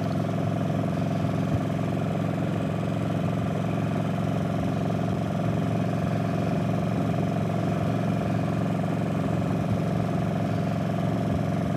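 Motorcycle engine running steadily at highway cruising speed, with wind noise, heard through a helmet-mounted microphone.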